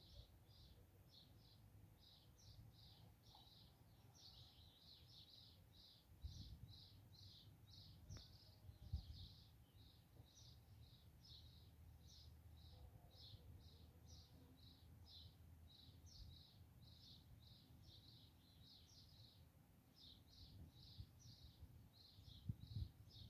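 Faint, rapid chirping from small songbirds, short high chirps repeating about two to three times a second without pause, with a few dull low thumps about a third of the way in and near the end.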